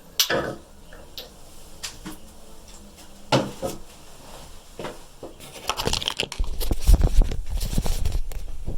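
A few sharp clicks and knocks, then a louder, continuous rumbling with a heavy low end that starts about five and a half seconds in.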